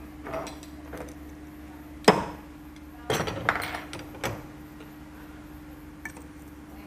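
Metal tools and engine parts clinking and knocking as they are handled during motorcycle engine assembly. There is one sharp knock about two seconds in, a quick cluster of clinks a second later, and a few lighter taps after that, over a steady faint hum.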